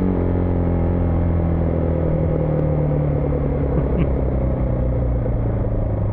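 Husqvarna Vitpilen 401's single-cylinder engine running steadily under way, its pitch easing slightly lower, with a brief click about four seconds in.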